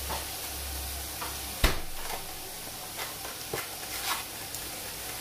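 Masala frying in a pan on the stove with a steady sizzle. A low hum stops with a sharp click about a second and a half in, and a few lighter clicks follow.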